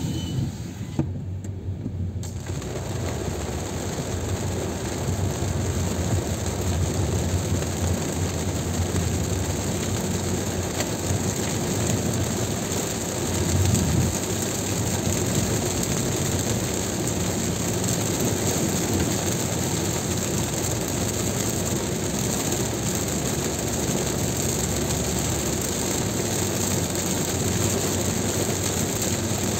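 Steady noise of a car driving on a highway in heavy rain: tyres on the wet road and rain on the car, with a brief louder low rumble about halfway through.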